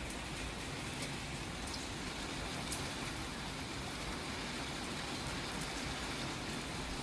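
Steady rain: an even hiss with a few scattered drop ticks.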